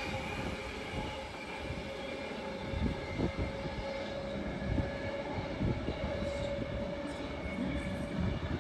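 Train running through a station: a steady rumble with a held tone and a few scattered knocks.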